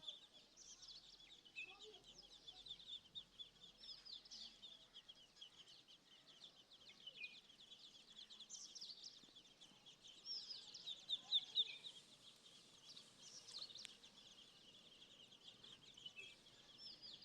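Many small birds chirping at once, faint but continuous: a crowd of short, high, falling chirps that overlap, with a louder flurry about two-thirds of the way through.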